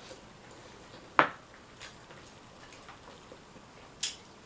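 Eating noises from shell-on seafood boil: two sharp clicks, a loud one about a second in and a thinner, higher one near the end, with a few faint ticks between.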